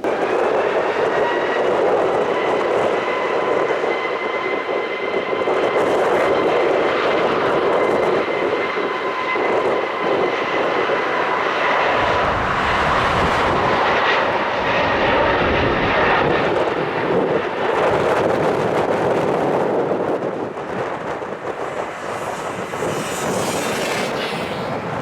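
Airbus A320neo jet engines at takeoff power: a steady high whine of fan tones over dense jet noise, with a deeper rumble partway through. The sound eases off a little near the end.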